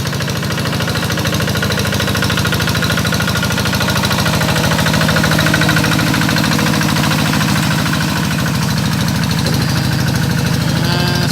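Tractor engine running steadily while ploughing a rice paddy, a rapid even chugging.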